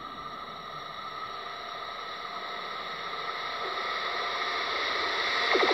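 Electric passenger train approaching on the rails, its running noise and a steady whine growing louder throughout; a lower tone joins about three and a half seconds in.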